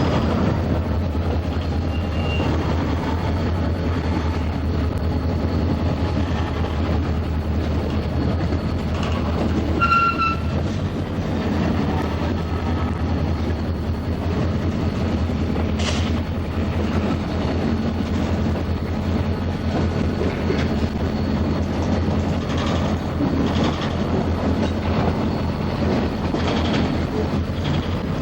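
Buffalo & Pittsburgh freight train cars rolling past, a steady rumble of steel wheels on the rails, with a few brief high-pitched squeaks about ten seconds in.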